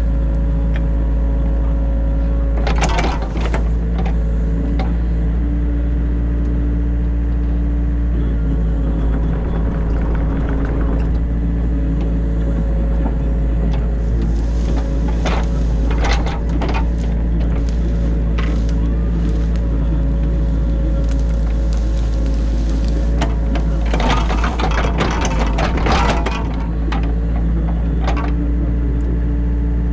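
Excavator's diesel engine running steadily, heard from inside the cab. Crunching, scraping bursts come about three seconds in, around the middle and again near the end as the bucket digs out the ditch.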